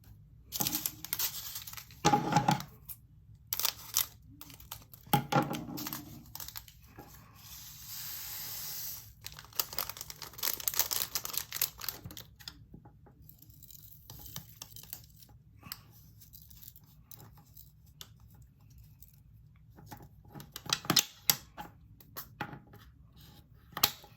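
Small plastic packets of resin diamond-painting drills being handled: crinkling and tearing open, with scattered clicks and rattles, and one steady hiss of about a second and a half near a third of the way in.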